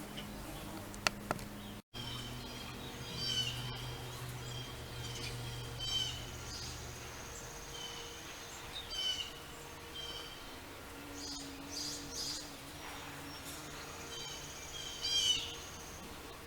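A songbird repeating a short, high phrase of quick notes about every three seconds, the last one the loudest. Under it runs a steady low hum of distant town engine noise from traffic and mowers.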